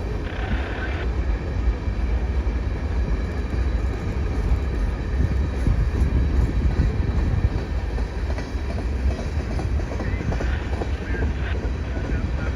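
Train rolling past on the mainline, a steady low rumble of its wheels on the rails.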